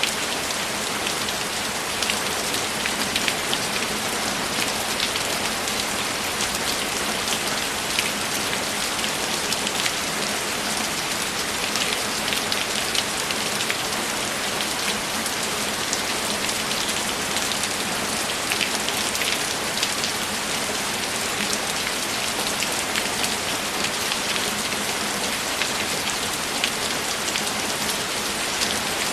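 Steady rain falling: an even hiss with many small drop ticks, unchanging in level.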